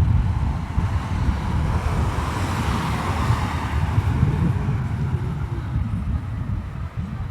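A car passing on the road, its tyre noise swelling to a peak about three seconds in and fading away, over wind rumbling on the microphone.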